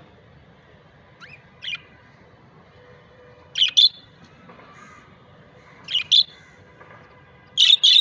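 Budgerigar giving short double chirps, four pairs spaced about two seconds apart, the first pair softer with a rising glide and the later pairs louder.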